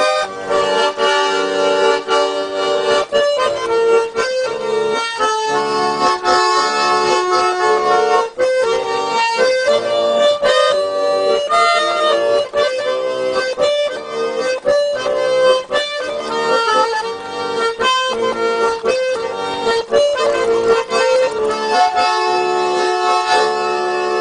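A Russian garmon (button accordion) playing an instrumental passage without singing: a melody of held reed notes over regular chord strokes.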